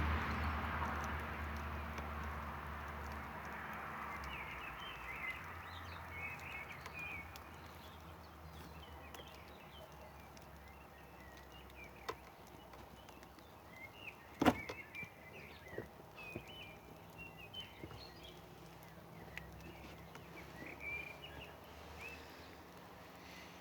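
Wood campfire crackling with scattered small pops and one sharp, loud pop about halfway through, while birds chirp faintly. A low rumble fades away over the first several seconds.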